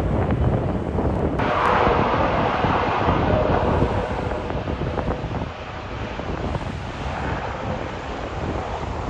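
Strong gusty wind buffeting the microphone, with an airliner's engines coming in sharply about a second and a half in and easing off after about five seconds.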